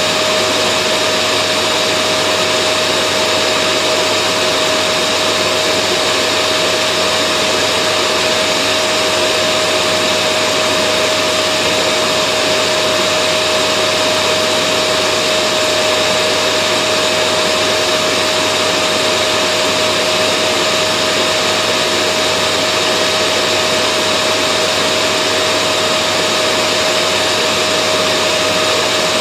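Vacuum cleaner running continuously at a steady pitch, a whining hum over a constant rush of air, with no change in speed or load.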